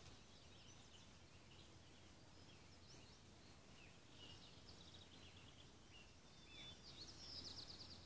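Faint birdsong from small songbirds: scattered chirps and twitters, with a quick run of rapid repeated notes near the end.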